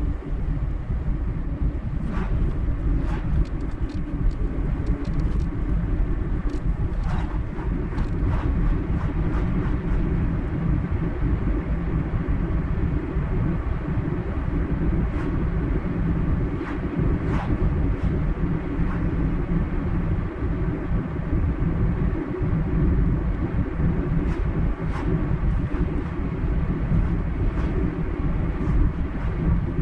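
A car driving at a steady speed: a continuous low rumble of tyre and road noise, with scattered light clicks and ticks.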